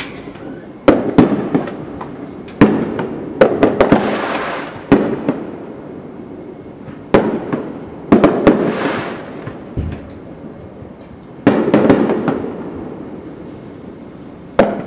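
Aerial fireworks shells bursting over a city: about a dozen sharp bangs in clusters a few seconds apart, each trailing off in a long rolling echo, with crackling hiss after some bursts.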